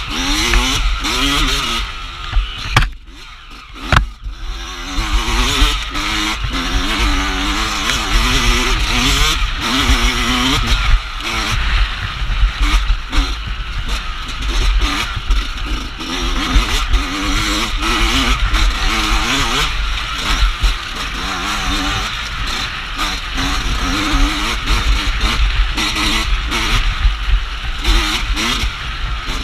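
Dirt bike engine revving up and down again and again with constant throttle changes while riding an off-road trail, with wind rumbling on the microphone. About three seconds in the engine drops off briefly, followed by one sharp knock.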